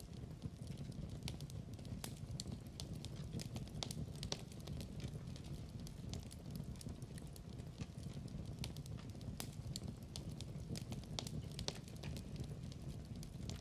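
Fire crackling in a fireplace: irregular sharp pops and snaps, several a second, over a steady low rush of burning.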